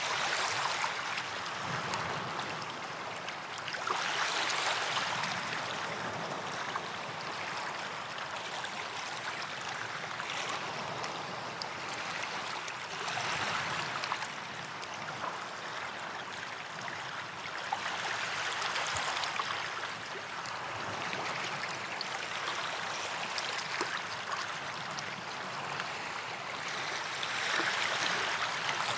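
Small waves washing onto a sandy beach, swelling and fading every four to five seconds, with a steady hiss of surf between them.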